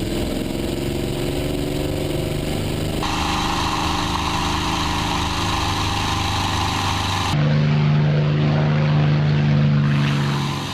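Aircraft engines running with steady droning tones that rise slightly at first; the sound changes abruptly about three seconds in and again about seven seconds in, as edited clips follow one another.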